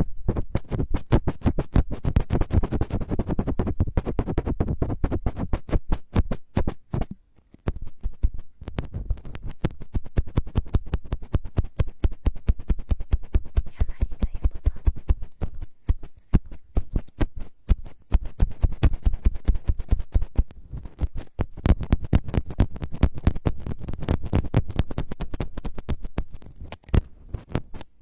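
ASMR scratching on a microphone: a rapid, dense run of scratchy crackles, broken by brief pauses about seven and a half and sixteen seconds in.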